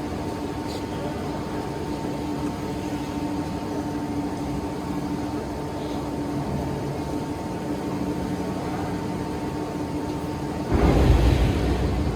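Workshop machinery running with a steady hum made of two constant tones over a low rumble. Near the end a louder, rougher noise suddenly comes in as the machine works harder.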